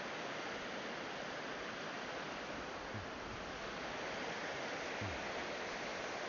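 Shallow, fast-moving glacial river water rushing over rocks, a steady even rush.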